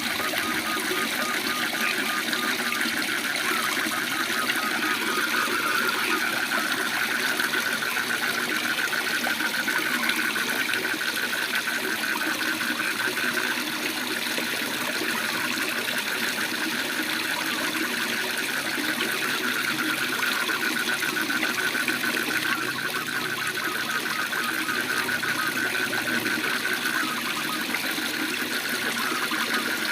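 Waterfall rushing steadily, with a continuous chorus of frogs calling in rapid, high trills over it.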